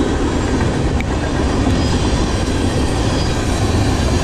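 A CSX freight train's tank cars rolling past, with the steady noise of steel wheels on the rails.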